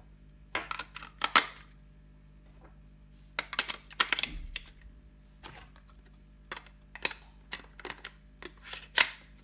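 Batteries being fitted into the battery compartment of a plastic RC car transmitter: irregular sharp plastic clicks and clacks in small clusters.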